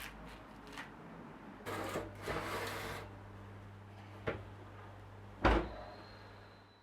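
A small electric appliance starts a steady low hum about two seconds in, with a rustle at its start, a click, and a sharp knock like a door or lid shutting a little after five seconds.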